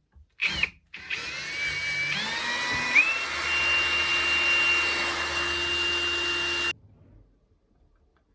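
Electric power tool motor running: a short burst, then a steady run of about six seconds whose pitch steps up twice in its first two seconds before it stops suddenly.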